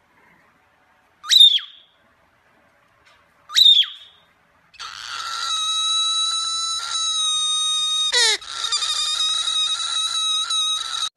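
Cockatiel calling: two short, sharp chirps that sweep up and down, about two seconds apart, then a long, steady, high-pitched screech lasting about six seconds, broken once by a quick downward sweep.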